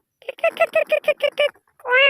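A voice rattling off a fast run of about a dozen identical short syllables, like a playful imitation of a machine sound. It is followed near the end by one rising-and-falling call.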